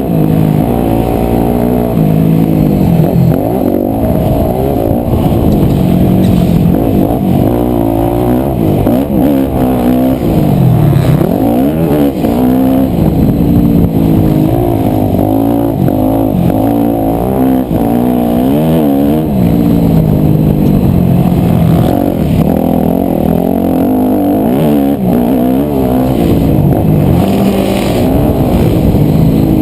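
250cc four-stroke single-cylinder motocross bike engine being ridden hard, its revs rising and falling again every second or two as the throttle is opened and shut.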